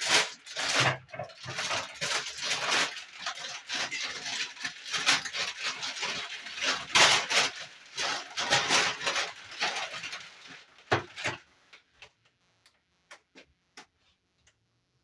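Rustling and clattering as parts and fittings of a new washing machine are handled, dense and busy for about eleven seconds, then thinning to a few separate clicks.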